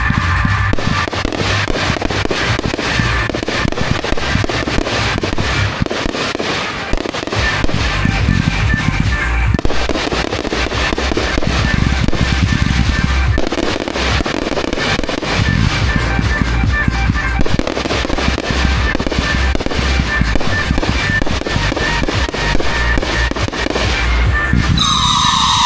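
Fireworks going off in rapid succession, a dense, continuous stream of cracks and bangs, with music playing underneath. Near the end a loud falling tone starts over the bangs.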